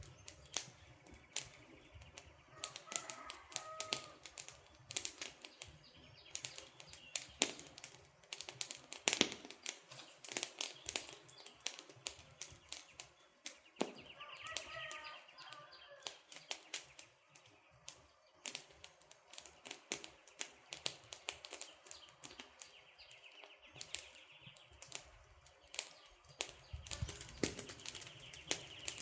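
Wood campfire crackling, an irregular stream of sharp snaps and pops. Short bird calls come in twice, about three seconds in and again around fourteen seconds.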